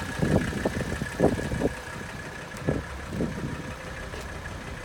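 Mercedes-Benz 300D turbo diesel's five-cylinder engine idling steadily, with a few short thumps in the first three seconds or so.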